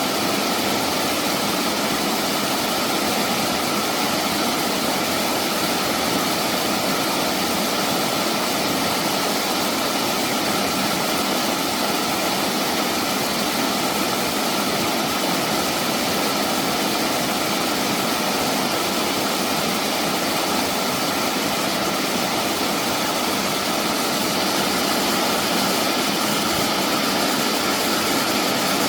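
A mountain stream rushing: a steady, unbroken wash of water noise.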